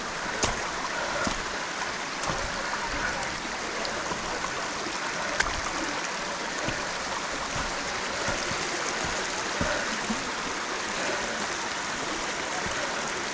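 A rocky mountain stream, Cucumber Run, rushing steadily over stones, with a few short sharp clicks over it.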